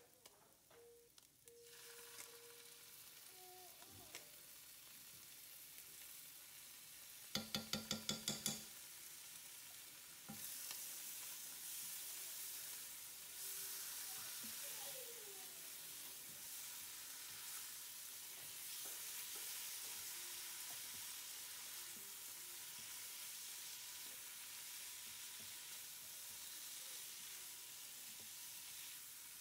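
Shredded chicken frying in a nonstick pan, sizzling steadily while a spoon stirs and scrapes it through the added Greek yogurt; the sizzle grows louder about ten seconds in. About seven seconds in comes a quick run of six or seven sharp, ringing taps.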